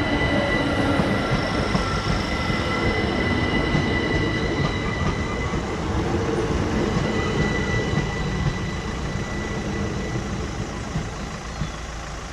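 Electrostar electric multiple unit running through the station: a low rumble of wheels on rail with a steady high whine from its traction equipment, easing off a little near the end.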